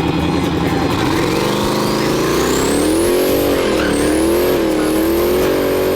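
Turbocharged drag-race truck engine revving up, its pitch climbing from about a second in, with a high turbo whistle rising steeply and then dipping twice as the engine note wavers.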